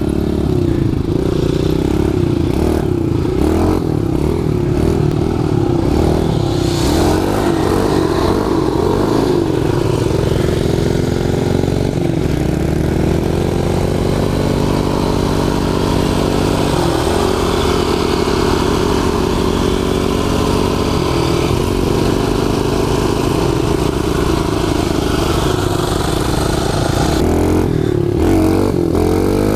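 Kawasaki KLX110 pit bike's small single-cylinder four-stroke engine running under way while being ridden. The revs rise and fall with the throttle, settle into a steadier note through the middle with a few steps in pitch, and waver up and down again near the end.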